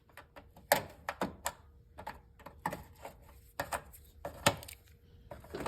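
Irregular sharp clicks and knocks of hand tools and parts being handled while components are removed, a dozen or so spread over several seconds.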